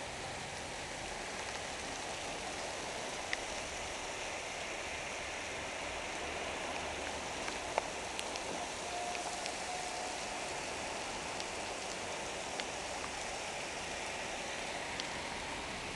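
Heavy rain shower pouring steadily onto a street, an even hiss of rain with a few sharp ticks scattered through it.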